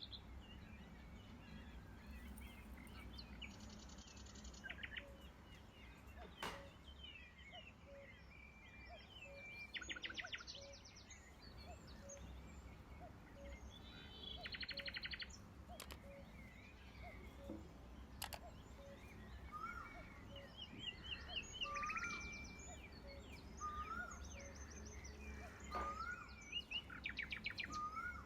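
Several birds chirping and trilling, one of them repeating a short rising call about every two seconds, over a low steady hum.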